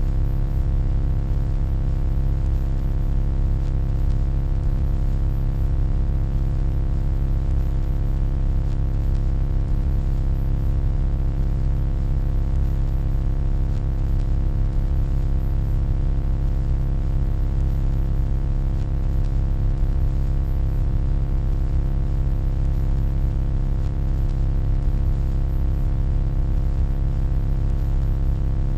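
Steady electronic hum: a deep, even drone with a faint hiss above it, unchanging throughout.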